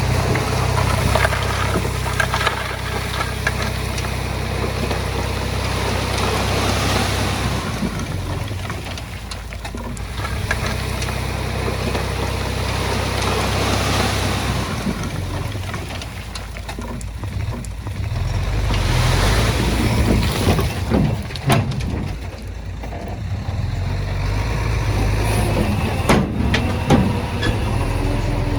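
Diesel engine of heavy earth-moving machinery running under varying load, its pitch and loudness rising and falling, with scattered knocks and clatter in the second half.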